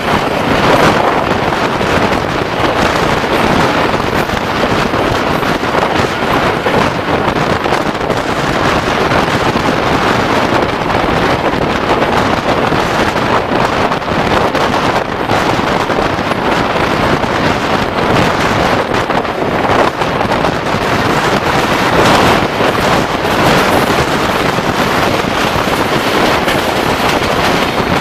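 Moving passenger train heard from an open window, with steady rushing running noise and wind buffeting the microphone.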